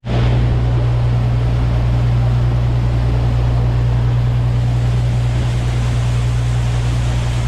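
Tour boat's engine running steadily under way, a deep continuous hum over an even wash of noise.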